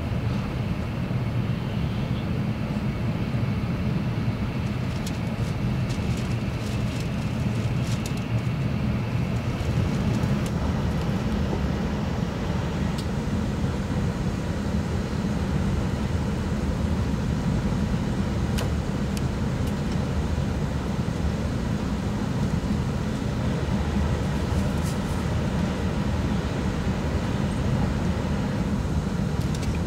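Steady running noise heard inside an E6 series Komachi shinkansen car at speed: a low rumble with a few faint clicks.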